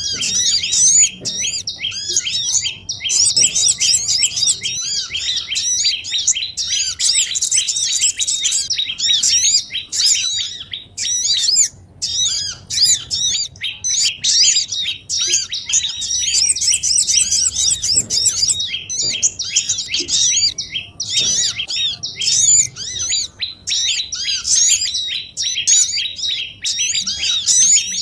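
A dense, noisy chorus of small songbirds chirping rapidly and overlapping, the kind of bird-lure recording played to draw small wild birds down. The high chirps run without a break except for a brief pause about twelve seconds in.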